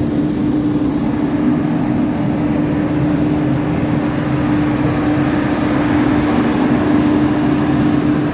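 Boom truck engine running steadily with its power takeoff engaged, driving the hydraulic pump, with a steady hum over the engine rumble.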